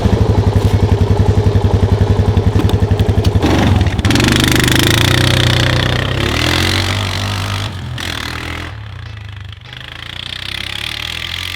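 Four-wheeler (ATV) engine running, a fast even chugging for the first few seconds, then revving up about four seconds in and settling back to a quieter steady run.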